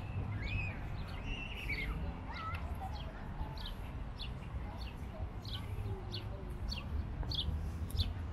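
A bird chirping: a few curved whistled calls at first, then short downward chirps repeated about twice a second, over a low steady background rumble.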